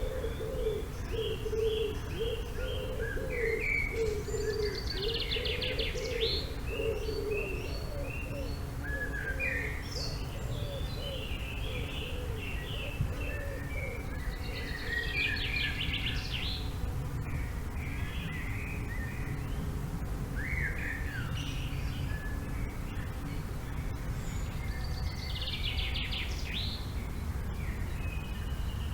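Several songbirds singing and chirping in a forest, one trilled phrase coming back about every ten seconds. A lower warbling call runs through the first several seconds, over a steady low rumble of wind.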